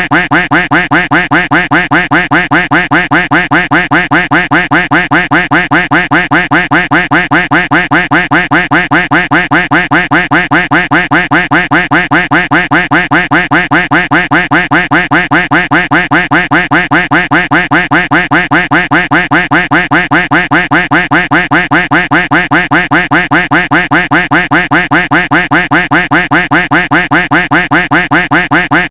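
Duck quack sound effect looped nonstop, the same quack repeating evenly several times a second.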